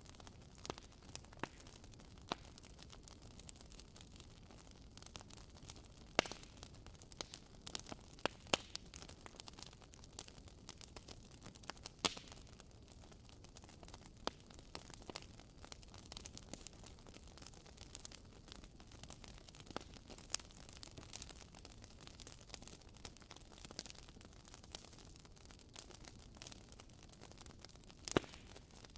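Wood fire burning in a fireplace, with irregular sharp crackles and pops from the logs over a soft steady hiss; single louder pops about six seconds in, at about twelve seconds and near the end.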